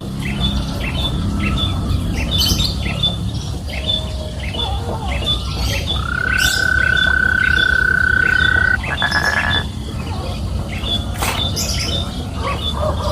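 Countryside ambience with birds calling: a short high chirp repeats about twice a second throughout. About six seconds in, a long steady whistled note is held for nearly three seconds and breaks into a brief stuttering trill. A steady low rumble runs underneath.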